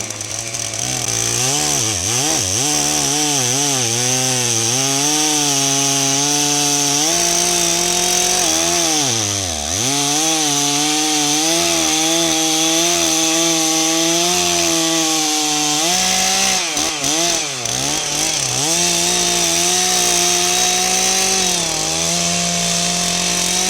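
Stihl MS 660 two-stroke chainsaw running under load as it cuts into wood. The engine pitch wavers and sags sharply several times, deepest about ten seconds in, then climbs back. These are signs of the saw bogging as its bent 25-inch bar binds in the cut.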